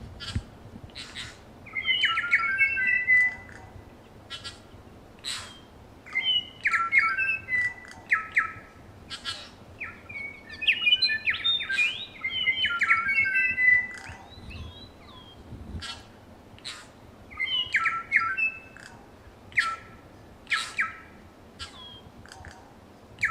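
Several New Zealand bellbirds singing close by: repeated bursts of quick, clear, bell-like notes, with sharp clicks between the phrases.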